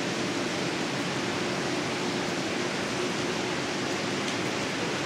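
Heavy tropical downpour: rain pouring steadily, a constant even hiss.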